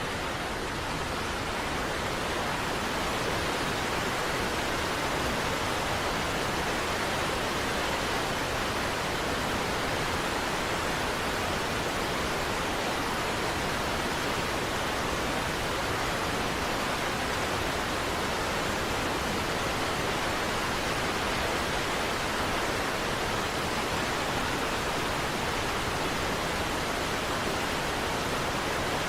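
Niagara Falls: the steady, even rush of a large waterfall, with no breaks or changes.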